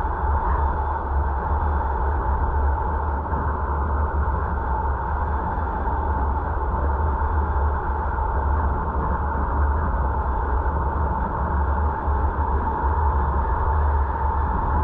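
Steady road and wind noise of a moving car, heard from inside the cabin through the dashcam: a constant low rumble with an even hum and no change in pace.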